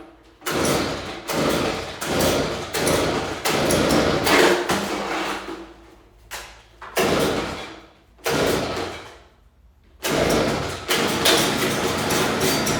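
Stihl BG 86 two-stroke handheld leaf blower on a cold start, its engine firing in repeated short surges that die away, with two longer stretches of running, the last near the end.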